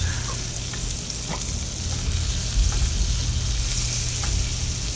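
Stingray pieces cut to look like scallops, coated in blackening seasoning, sizzling steadily as they fry in butter in a hot pan, with a few faint clicks.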